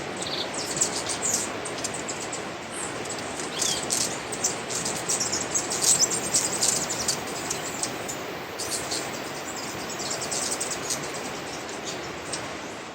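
Several birds chirping and calling with many short, high chirps throughout, over a steady background hiss.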